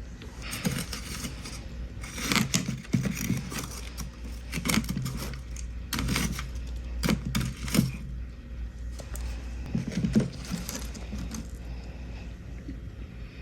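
Freezer frost being crunched and chewed close to the microphone, in a series of short, crisp crunches at irregular intervals.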